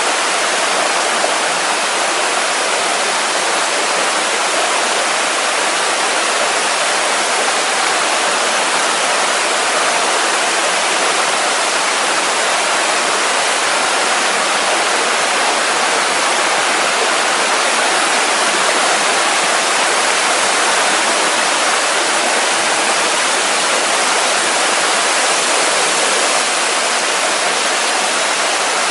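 Steady, even rush of a waterfall, water cascading down the rocks of a mountain stream.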